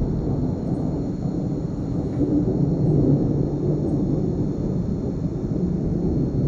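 Long rolling thunder rumble, a continuous low roll that swells about three seconds in and again near the end.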